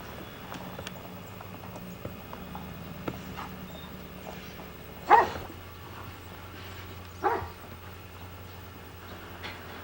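A dog barking twice, about two seconds apart, over a steady low hum.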